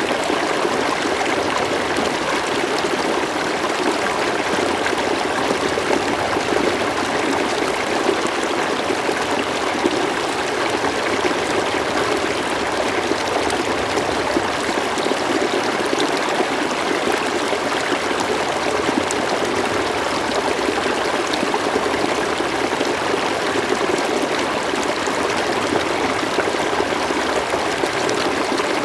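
River water flowing and burbling steadily, an even rushing with no pauses or changes.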